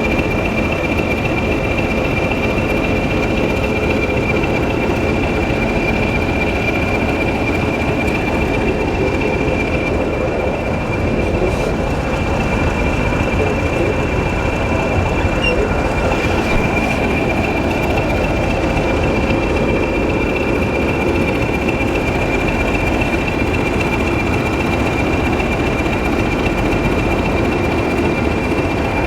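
A train's steady running noise: a dense low rumble with a constant high whine over it.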